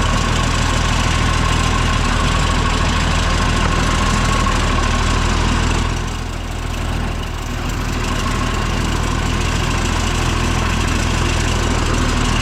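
Cockshutt 1850 tractor engine running steadily, just after being started in first gear because its clutch is worn out. The engine note sags briefly about six seconds in, then recovers.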